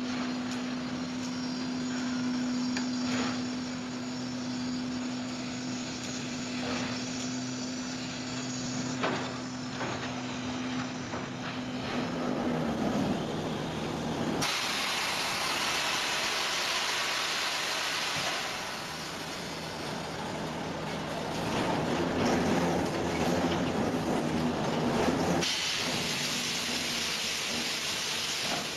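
Sawmill machinery running: a steady hum that drops a little in pitch about twelve seconds in, then a loud hiss that starts about halfway through and cuts off suddenly near the end.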